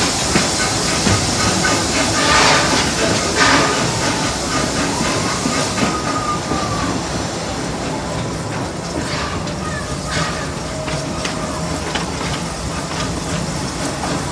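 Amusement-park railroad train running uphill, with steady rumble and track rattle. Two bursts of hiss come about two and three and a half seconds in.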